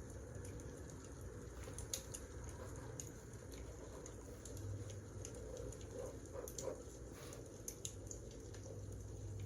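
Wood fire crackling: scattered sharp pops and snaps over a steady low rumble of the burning logs.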